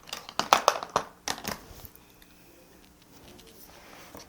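A quick run of small clicks and light taps from cosmetic products being handled and set down, over the first second and a half, then only faint room sound.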